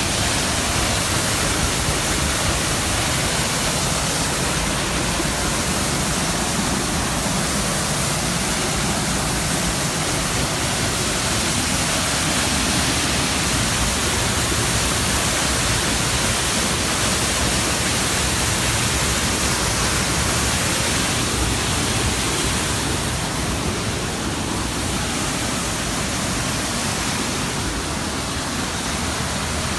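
Waterfall: water crashing down in a steady, unbroken rush.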